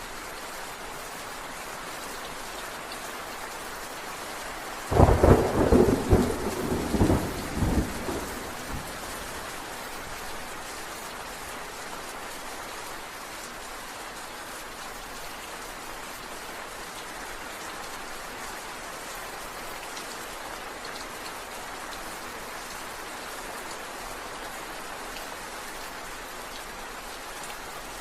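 Steady rain falling, with a sudden thunderclap about five seconds in that crackles and rumbles for about three seconds before dying away.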